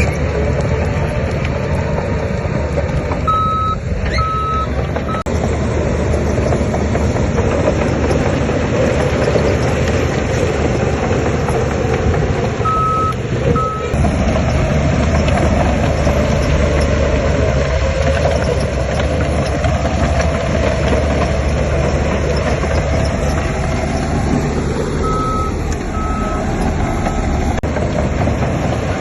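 Heavy earthmoving machine engine running steadily under load, with a reversing alarm beeping in three short runs of two to four beeps as a machine backs up.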